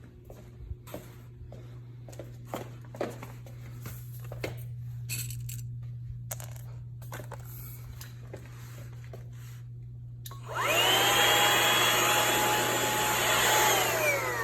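Shark VM252 VacMop Pro cordless vacuum mop switched on about ten seconds in: its motor whine rises quickly, runs steadily for about three seconds, then falls as it is switched off and spins down near the end. Before it starts, scattered clicks and knocks of handling.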